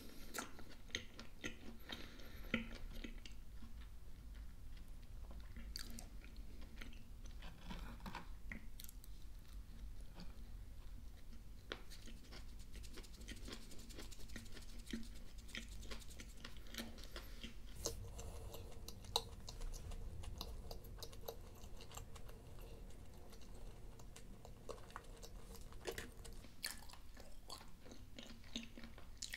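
Close-miked chewing of a mouthful of scrambled egg and sausage sandwich, with many small wet mouth clicks and crackles.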